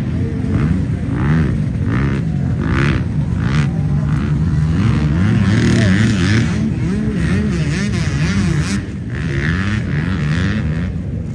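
Motocross bike engine revving, its pitch rising and falling again and again as it accelerates and backs off, briefly dropping a little in loudness near the end.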